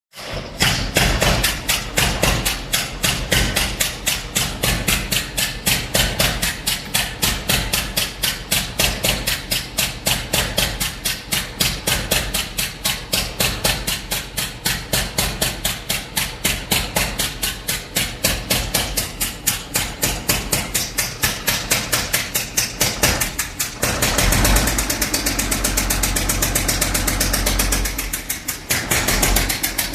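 Scania L71 Regent truck's diesel engine running with a fast, even pulsing beat, revved up for a few seconds near the end and then settling back. It sounds rough, which the owner puts down to a blown head gasket on number one cylinder, in an engine revived after more than 30 years standing.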